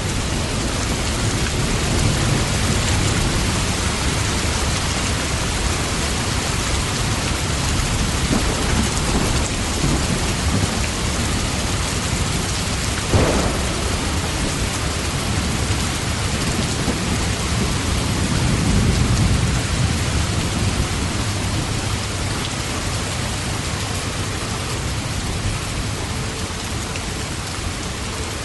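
Steady rain falling, with thunder rumbling low around two seconds in and again for a few seconds past the middle. One sharp crack about halfway through.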